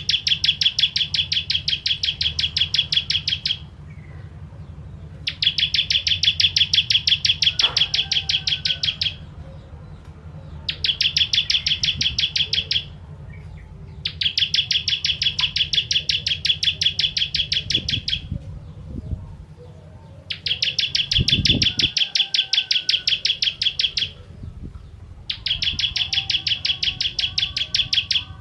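Ciblek kristal, a prinia kept as a songbird, singing in rapid trills of sharp, high chirps. It gives six bursts of two to four seconds each, with short pauses between them, over a faint low hum.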